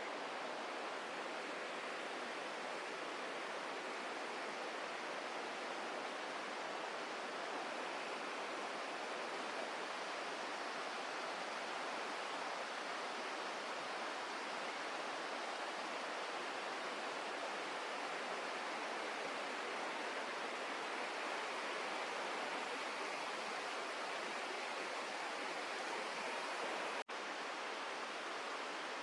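Steady rush of flowing water, an even hiss with no rhythm, cut off for an instant near the end.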